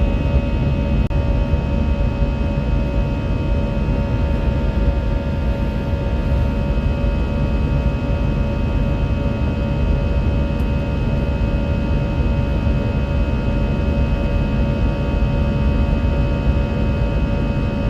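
Airbus A320 cabin noise during takeoff, heard from inside the cabin: a steady deep rumble and rushing air with several even engine tones held level throughout.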